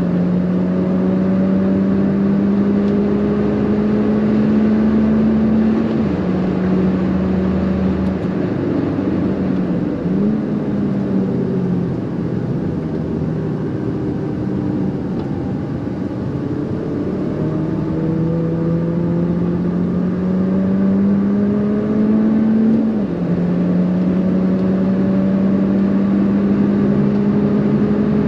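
R56 Mini John Cooper Works' turbocharged 1.6-litre four-cylinder heard from inside the cabin, running hard on track with its pitch slowly climbing as the revs build. The pitch drops sharply at upshifts about six seconds in and again about three-quarters of the way through, and dips and climbs again around ten seconds in.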